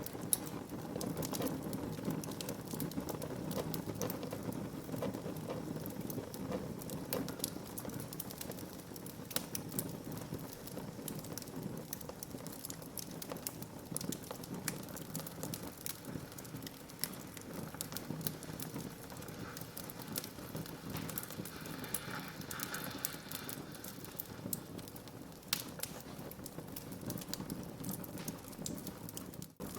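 Wood fire burning in a fireplace: a steady hiss of flames with frequent sharp crackles and pops from the burning logs. The sound drops out for an instant near the end.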